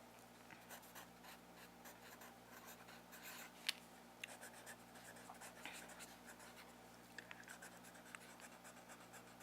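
Soft close-up handling sounds: faint scratching and rustling with scattered small clicks, and one sharper click about three and a half seconds in.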